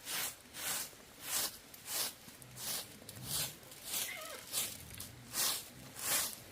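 Rhythmic rasping strokes of a hand tool working bamboo, about one and a half strokes a second with short pauses between them. A bird gives a brief falling chirp about four seconds in.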